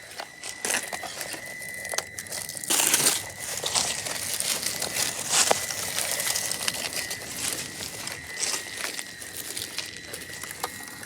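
Traxxas TRX-4M mini RC crawler driving over rough dry ground: its tyres crunch and crackle over dirt and debris, with a steady high whine underneath and rougher surges of crunching about three and five and a half seconds in.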